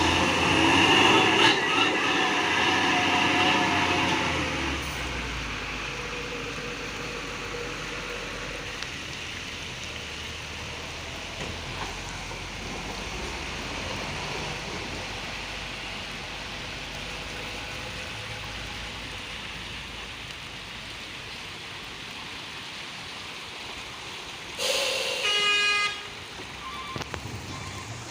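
Vehicle noise over a steady hiss, louder in the first few seconds. Near the end a vehicle horn sounds once, for about a second and a half.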